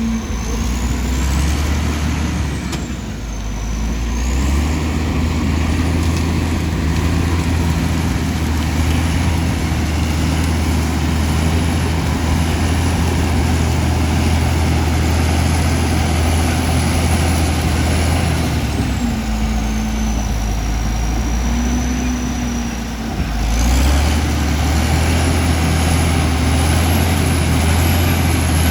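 Komatsu D65E bulldozer's diesel engine running steadily under load, its note dipping briefly twice and then picking up again. A thin high whistle glides down and back up in pitch over it.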